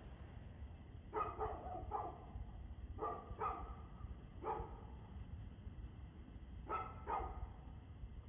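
A dog barking, about eight short barks in groups of one to three, over a steady low rumble.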